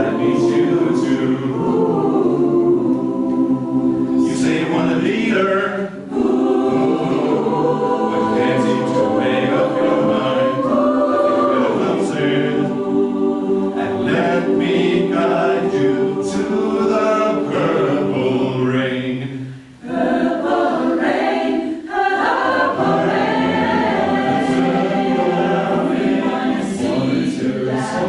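Choir singing in held chords, with two short breaks in the sound, about six seconds in and about twenty seconds in.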